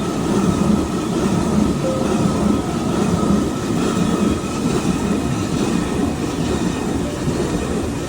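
Traditional water-driven mill running, a steady rumble of turning millstone and rushing water.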